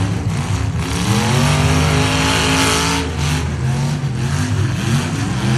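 Demolition derby trucks' engines revving hard. One climbs in pitch about half a second in, holds loud with a rush of noise, then drops off sharply near three seconds.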